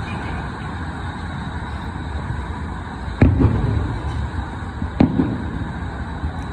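Fireworks shells bursting twice, about three seconds in and again about two seconds later, each sharp bang followed by a low rumbling echo, over a steady city traffic hum.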